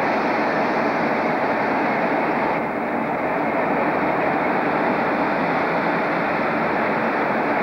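Passenger train running slowly into a platform: a steady, unbroken running noise.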